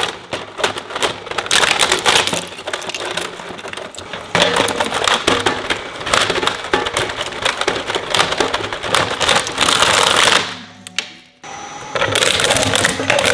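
Industrial shredder chewing up plastic: a dense, continuous run of cracks and snaps. It breaks off briefly about ten seconds in, then starts again.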